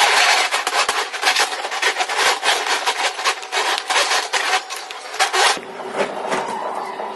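Rough, irregular scraping and rasping, as of a tool worked hard against a surface, in quick uneven strokes that ease off about five and a half seconds in.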